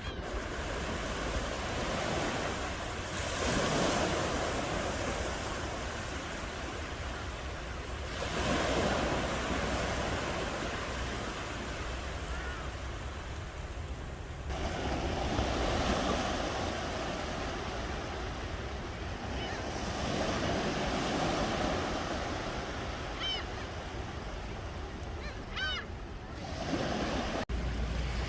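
Sea waves breaking and washing up the shore in slow surges about every five to six seconds. A few short high bird calls come near the end.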